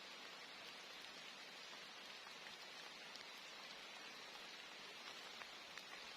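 Steady rain falling, a soft even hiss with a few faint drop ticks scattered through it.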